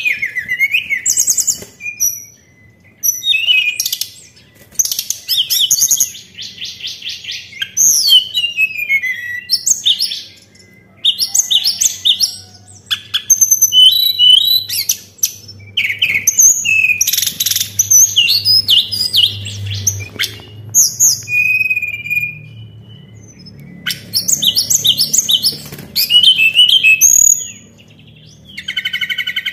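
Tledekan songbird singing: loud bursts of rapid trills, clicking rattles and gliding whistled notes, each phrase a second or two long with short pauses between, used as a lure song to set other tledekan singing.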